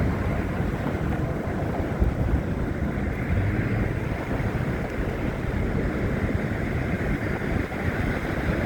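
Wind buffeting a handheld phone's microphone in a snowstorm: a steady rushing rumble with uneven low swells.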